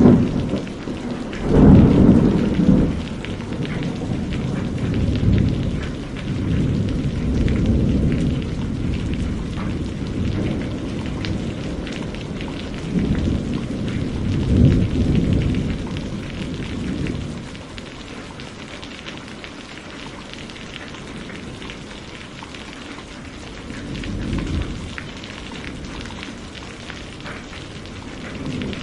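Steady rain with rolling thunder: loud low rumbles about two seconds in and again around the middle, and a fainter one near the end.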